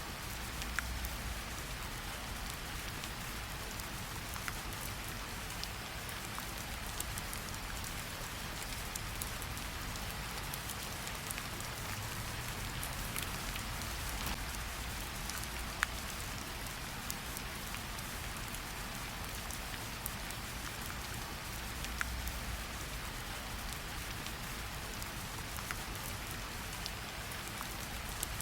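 Steady patter of gentle rain on tree leaves, with scattered individual drops ticking, a few louder than the rest.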